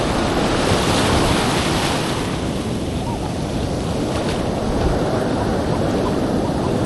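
Ocean surf washing up the beach, a hiss that eases after about two seconds, with wind buffeting the microphone.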